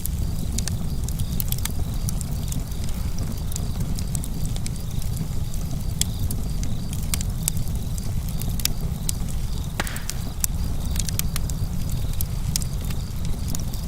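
Campfire burning with a steady low rumble and frequent sharp, irregular crackles and pops of the burning wood.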